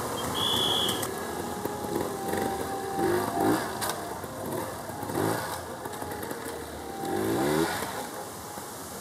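Classic trials motorcycle engine being blipped in several short revs that rise in pitch, as the bike is ridden over rocks and logs.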